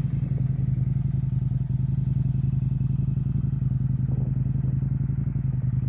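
Indian FTR motorcycle's V-twin engine running loud and steady at an even cruising pace while being ridden.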